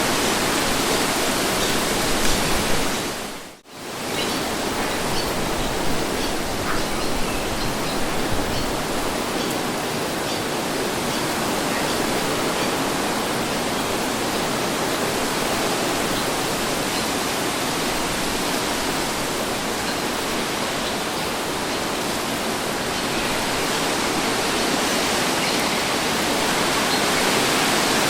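Steady wind noise, an even rushing hiss across the range, that drops out briefly and comes back about three and a half seconds in.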